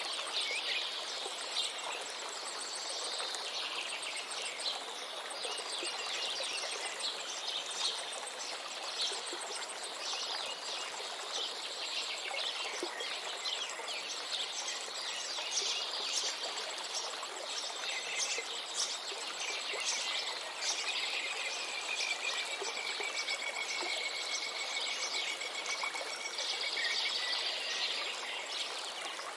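Many birds chirping and singing continuously over the steady rush of a river.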